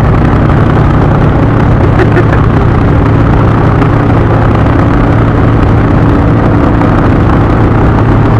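Indian V-twin motorcycle engine running steadily at cruising speed, a constant low drone mixed with wind and road noise.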